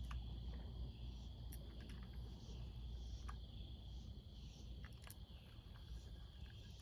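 Chorus of night insects at dusk, a steady high pulsing trill, over a low rumble, with a few scattered small clicks.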